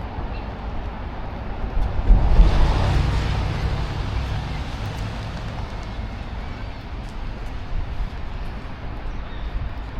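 Road traffic running by, with one vehicle swelling past about two seconds in and then fading, over a steady low rumble.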